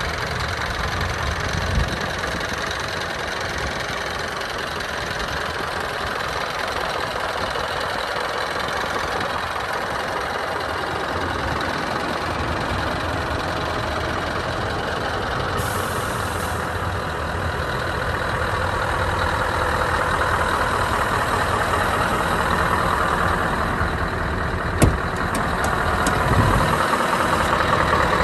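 Scania R 560 truck's V8 diesel engine idling steadily, growing a little louder in the second half. A single sharp click sounds near the end.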